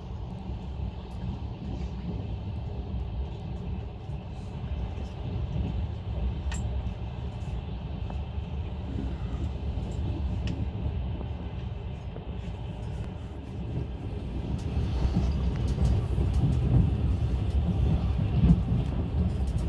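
Steady low rumble of a passenger train running on the rails, with a few faint clicks, growing louder about three-quarters of the way through.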